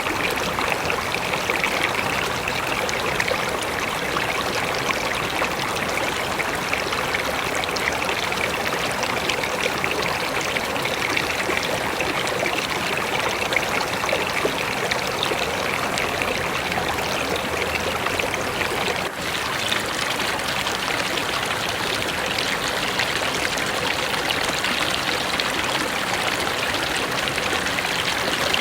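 Mountain river rushing steadily over rocks, an even wash of flowing water. A momentary dip in the sound comes about two-thirds of the way through.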